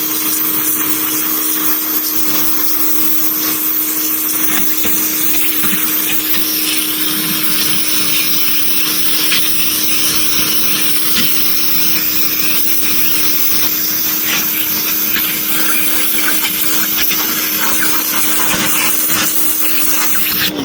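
Pressure washer running steadily, blasting grime and rust out of the Ford flathead V8 8BA block: a constant motor hum under an even hiss of spray.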